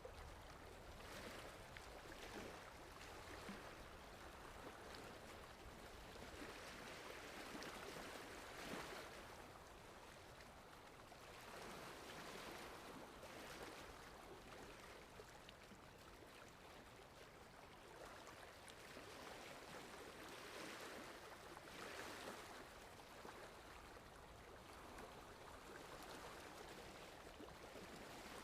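Faint sea waves washing in: a soft rushing that swells and falls back every few seconds.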